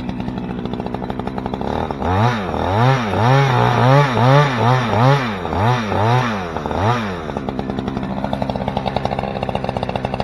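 Two-stroke chainsaw running steadily, then from about two seconds in revving up and down about twice a second for some five seconds before settling back to a steady note, as the felling cut is taken a little further on one side of the tree.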